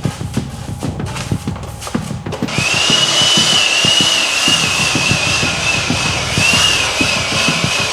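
A handheld power tool starts about two and a half seconds in and runs with a loud, steady high whine over a hiss, after a few light knocks.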